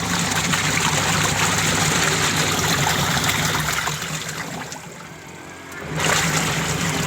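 Water running steadily with a low hum underneath; both drop away for about a second near five seconds in, then resume.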